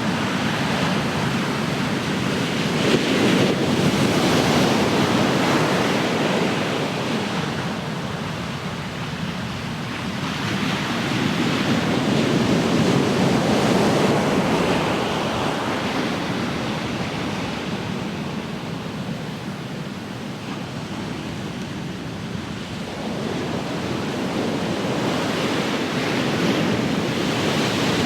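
Ocean waves breaking and washing ashore in slow, rolling surges, each swell building and fading over several seconds, with some wind on the microphone.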